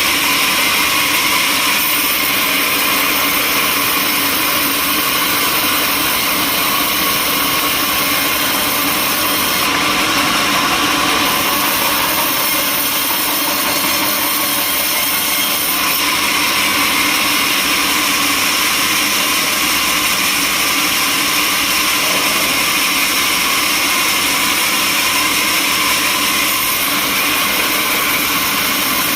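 Sawmill saw machinery running steadily and loudly, a dense high-pitched whine and hiss, shifting abruptly in tone a few times.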